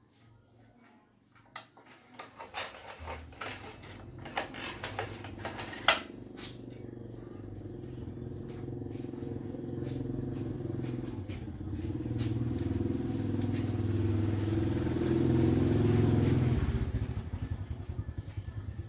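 A small motor runs steadily, getting gradually louder, then winds down near the end. A series of sharp metallic clicks and knocks come in the first few seconds.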